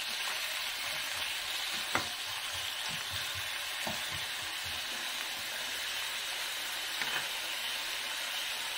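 Julienned potato strips sizzling steadily as they pan-fry in oil in a nonstick wok, with a few knocks of a spatula against the pan as they are stirred.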